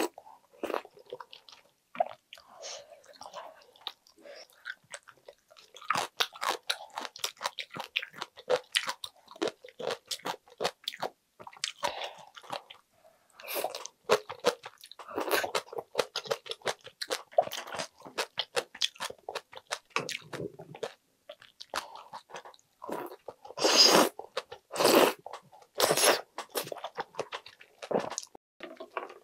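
Close-miked eating sounds: wet chewing and crunching of aged napa cabbage kimchi and dumpling soup with rice, with sips from a wooden spoon. Irregular bursts of smacking and crunching, loudest a few seconds before the end.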